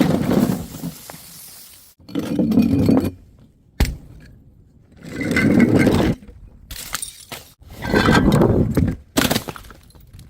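Glass bottles breaking in a run of separate smashes, about four in all, with scraping and clinking of glass shards between them.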